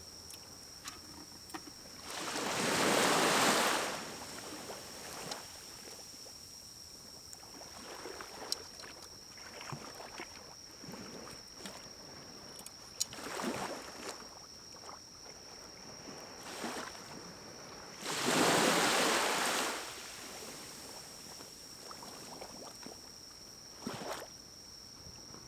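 Pine-cone fire in a small wood-burning stove crackling with scattered small pops and ticks. Two loud rushes of air, each about two seconds long, rise and fall about two seconds in and again near eighteen seconds, with a few weaker ones between.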